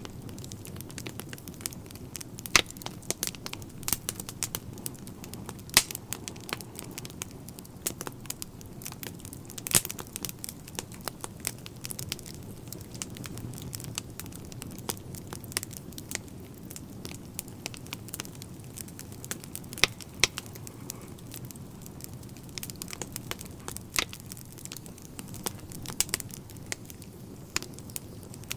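Wood fire burning in a fireplace: a steady low rumble of the flames under constant irregular crackling, with sharp louder pops of the burning logs every few seconds.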